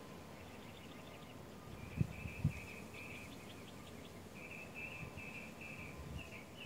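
Faint outdoor background: a small bird chirping in two runs of short, evenly repeated high notes. Two soft low thumps come about two seconds in.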